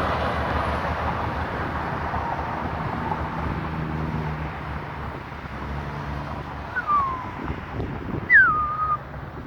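Heavy truck engine running as it passes on the highway, its rumble slowly fading away. Near the end come two short falling whistles, the second louder and settling on a steady note.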